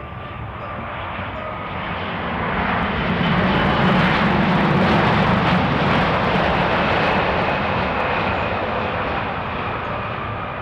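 Jet engines of a landing Boeing 787-8 airliner. The noise swells to a peak about four seconds in, then slowly fades.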